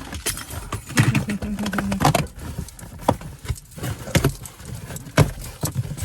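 Handling noise: a bunch of keys jangling amid irregular clicks, scrapes and rattles, with a few sharper knocks and a brief steady hum about a second in.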